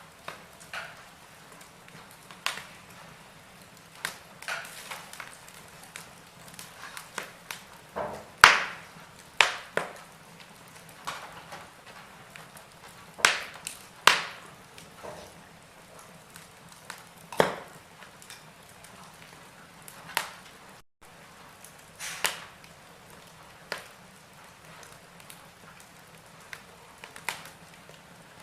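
Wood fire burning in a fireplace, crackling with irregular sharp pops of varying loudness over a faint steady hiss.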